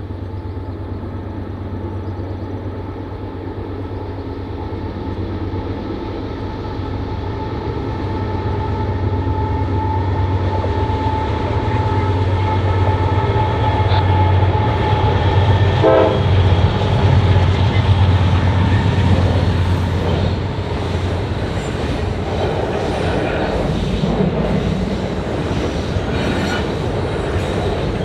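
A train approaching and passing, its low rumble growing louder toward the middle, with the horn sounding steady tones over it. Wheels clatter over the rails in the last part.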